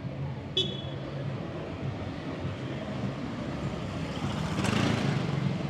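City street traffic: a steady low rumble of engines, with a vehicle passing close by, swelling and fading about four to five seconds in. A brief high chirp sounds about half a second in.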